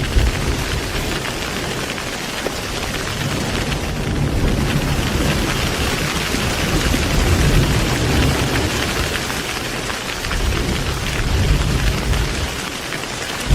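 Heavy rain falling steadily, with low rumbles of thunder that swell and fade a few times.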